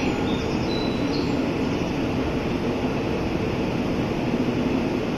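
Steady whir of a JR West 700 series 7000-番台 Rail Star Shinkansen train standing at the platform with its on-board equipment running, a constant low-pitched hum and rush with no change in level.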